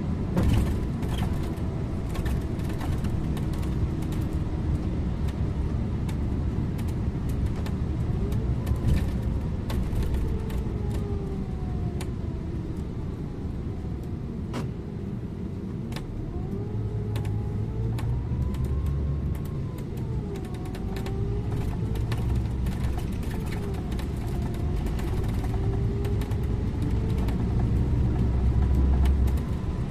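Scania InterLink bus on the move, heard from the driver's seat: steady engine and road rumble with a drivetrain whine that rises and falls several times as the bus speeds up and slows, and scattered small rattles and clicks from the cabin.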